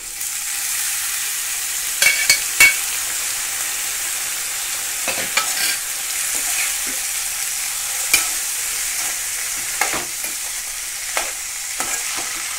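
Boiled cowpeas and their liquid hitting hot oil in a metal pan, setting off a steady sizzle, while a steel ladle stirring them scrapes and knocks against the pan now and then.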